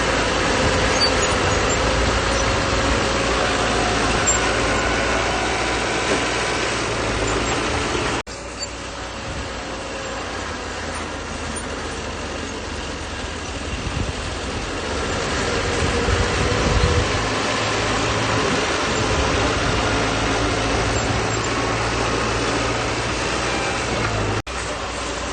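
Bulldozer diesel engine running and working, its pitch wavering as the load changes and rising briefly in the middle. The sound breaks off for an instant twice.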